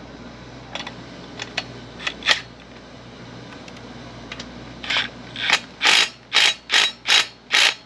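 A socket ratchet is clicking as it snugs down the mounting bolts of a motorcycle air cleaner kit. A few light tool clicks come first, then about seven quick back-and-forth ratchet strokes in the last three seconds.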